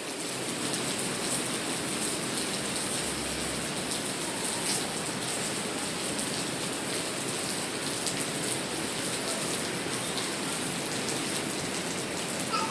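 Steady rain falling: an even hiss with a few faint sharper drop taps.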